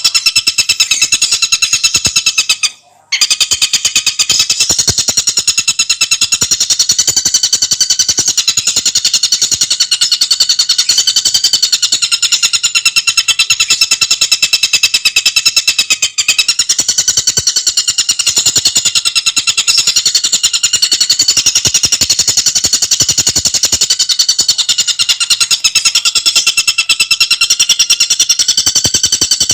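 Tengkek buto bird song: a fast, unbroken run of sharp, high, ringing notes repeated many times a second, with a brief break about three seconds in.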